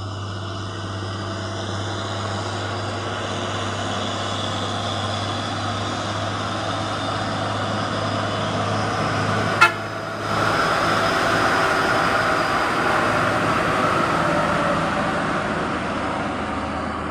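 Heavy truck engine running steadily on a steep uphill road, with a vehicle horn sounding. A sharp click about ten seconds in, after which the sound is louder.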